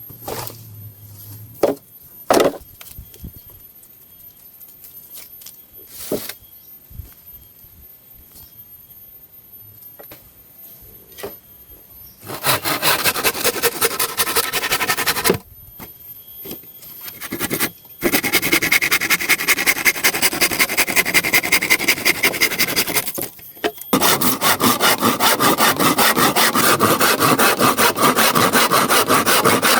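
Hand saw cutting through wood in quick back-and-forth strokes, in three bouts that begin about twelve seconds in, with short pauses between them. Before the sawing there are only a few scattered knocks and clicks.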